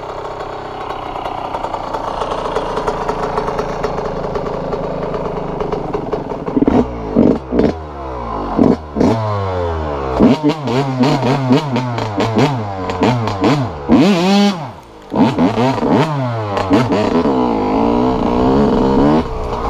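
Dirt bike engine running steadily, then from about seven seconds in revved hard over and over, its pitch rising and falling with each burst of throttle, with a brief drop in level about two-thirds of the way through.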